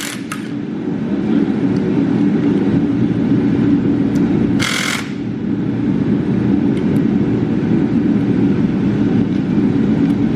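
A steady machine drone, with a short hiss about halfway through.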